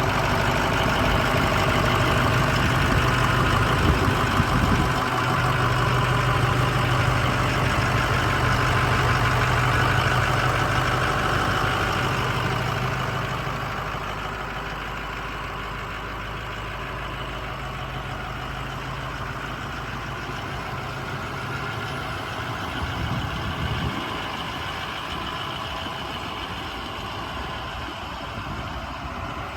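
2006 International 4200 bucket truck's diesel engine idling steadily. It grows quieter about 13 seconds in.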